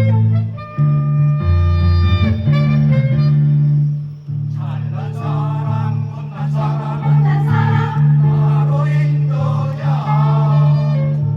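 Music: an instrumental accompaniment with a strong bass line and held melody notes for about four seconds, then a choir comes in singing over it.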